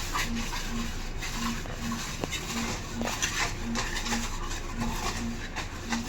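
Mason's trowel scraping and clinking against mortar and brick in many short strokes, with a low tone pulsing about twice a second underneath.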